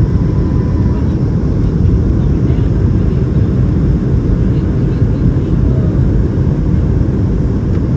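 Steady low cabin rumble inside a Boeing 757-200 in flight, from its Pratt & Whitney PW2000 engines and the airflow over the fuselage.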